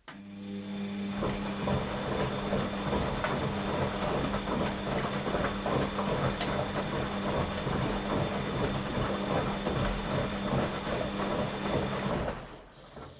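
Washing machine drum turning during the wash cycle. The motor hums steadily while the wet load tumbles with dense rattling and clicking. The turn starts abruptly and stops after about twelve seconds.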